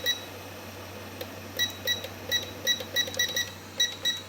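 Hot-air rework station beeping: a run of short, identical high beeps about three or four a second, the kind each press of its temperature button gives as the heat is turned up. Under them the station's blower runs with a steady low hum.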